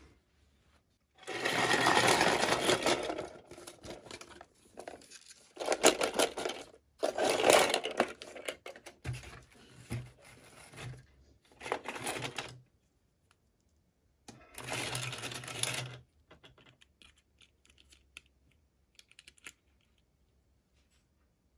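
Toy packaging being handled and torn open: five bursts of crinkling and rustling, each a second or two long, with small clicks and taps between them.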